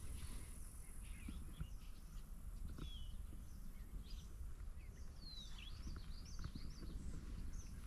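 Songbirds singing: many short chirps and whistled, sliding notes, over a steady low rumble.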